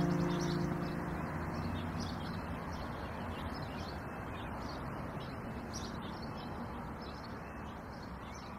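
The last notes of an acoustic guitar song fade out in the first second. They leave a faint steady noise with small birds chirping over and over.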